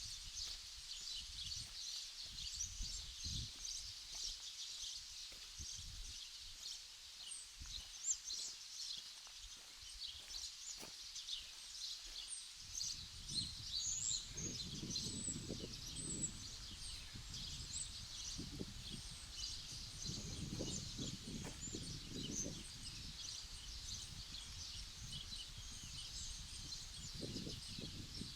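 Outdoor ambience dominated by a dense, continuous chorus of many small high-pitched chirps, with irregular low rumbles coming and going underneath, more of them in the second half.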